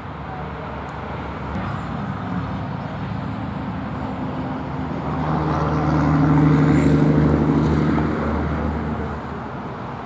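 A motor vehicle passing by on a road: engine hum and tyre noise build, are loudest about six to eight seconds in, then fade away.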